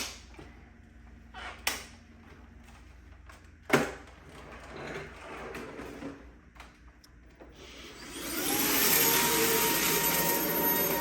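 A few sharp clicks and knocks, then about eight seconds in the Shark DuoClean cordless vacuum cleaner switches on and its motor comes up to speed within about a second. It then runs at a steady loud whir with a faint whine on top, running again after a new battery and a brand-new brush roll.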